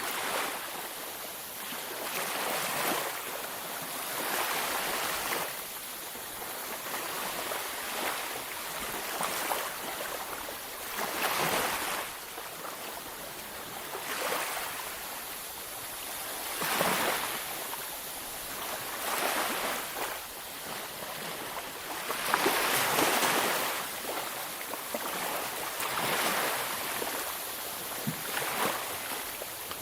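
Ocean waves breaking and washing on a beach, with a fresh surge every two to three seconds over a steady hiss of surf.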